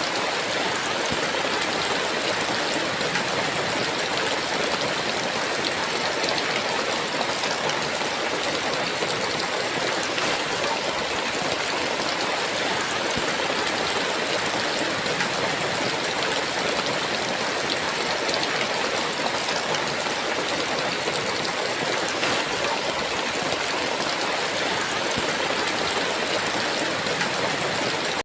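Steady heavy rain, a dense even hiss of downpour.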